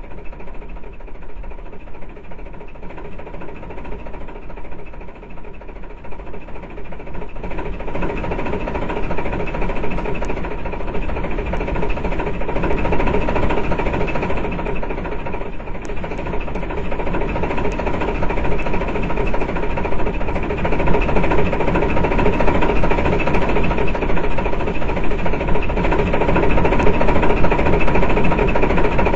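Train running with a dense, rapid mechanical clatter and a steady hum, growing louder about a third of the way in and again near the end.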